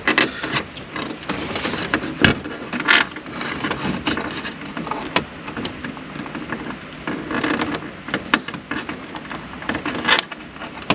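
Hands working at plastic dashboard parts, with scattered clicks, taps and rustling as the ambient light sensor is prised at.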